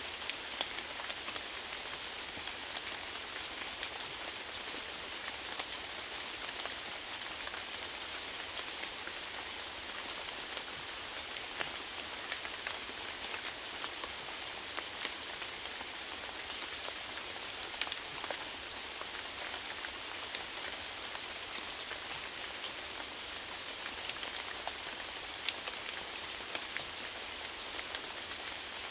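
Steady rainfall, a constant hiss of rain with individual drops pattering and ticking throughout.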